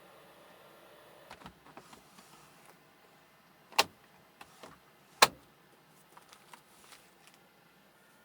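A run of light clicks and knocks, with two sharp, much louder knocks about a second and a half apart in the middle, over a faint steady hiss.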